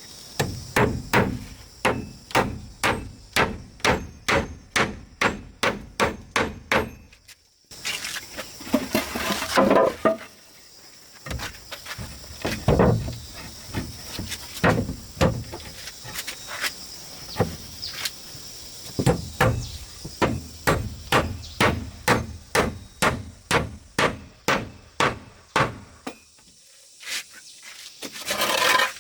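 Repeated hammering, sharp blows about two a second in several runs with short breaks between them.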